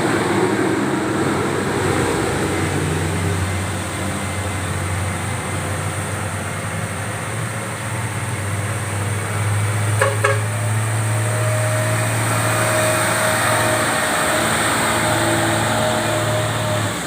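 Road traffic with heavy truck engines running, a steady low hum throughout. There is a sharp knock about ten seconds in, and a steady high whine over the last several seconds.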